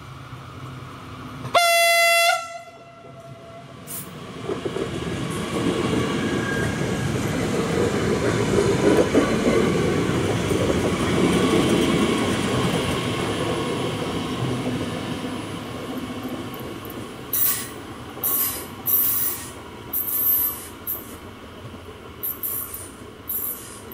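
An electric S-Bahn multiple unit gives one short horn blast before the level crossing, then passes close by, its rumble swelling and fading away. Near the end come a run of short, irregular hissing bursts.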